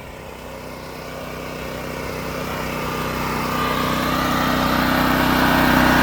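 Portable generator's small engine running steadily, growing louder over the whole stretch.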